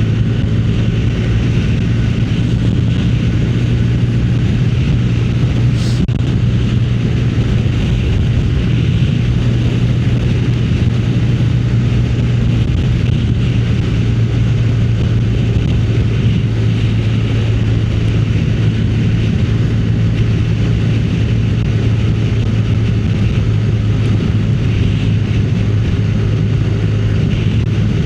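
Motorcycle engine running at a steady cruising speed while riding, with wind rushing over the microphone. A brief click about six seconds in.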